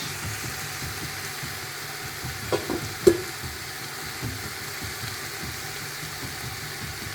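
Chicken feet and kabocha squash cubes sizzling in a pot of curry seasoning, a steady frying hiss. Two short knocks about 2.5 and 3 seconds in.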